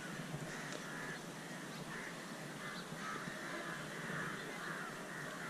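Birds calling again and again over a steady outdoor background hiss.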